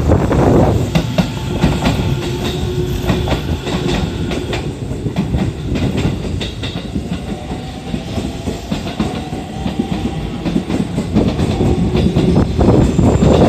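Aichi Loop Railway 2000 series electric train pulling out and gathering speed: wheels clicking over rail joints under a steady rumble, with a motor whine rising slowly in pitch in the middle. The rush grows louder again near the end as the cars run past.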